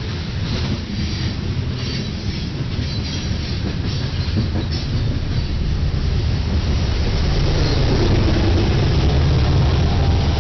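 Grain train freight cars rolling past, their wheels clicking rhythmically over rail joints with faint wheel squeal. In the second half a low engine drone grows louder and dominates.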